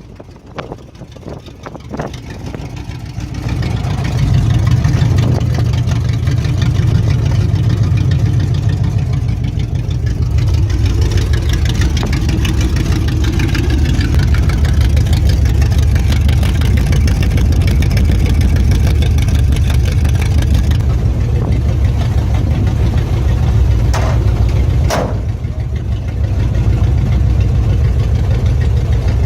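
V8 engine of a Chevrolet S10 pickup running, much louder from about three seconds in and then holding steady, with its ignition timing still a little out after the distributor was knocked. Two brief sharp sounds near the end.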